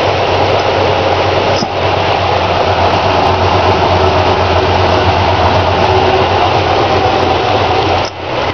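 1969 Plymouth Sport Satellite's 318 two-barrel V8 idling steadily through dual exhaust, warming up after a cold start from months of sitting. The sound drops briefly twice, once about a second and a half in and again near the end.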